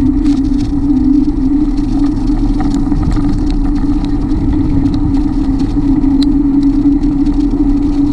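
Steady drone of a bicycle ride, a constant hum over low rumbling noise of the kind wind makes on a microphone, with a few faint ticks.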